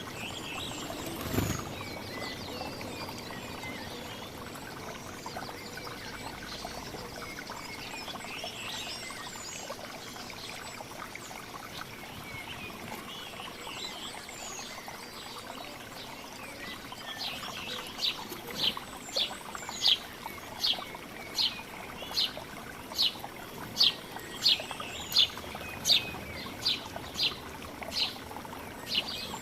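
Several small birds chirping over a steady trickling hiss, with a brief thump near the start. From about halfway on, one bird repeats a sharp, high chirp about one and a half times a second.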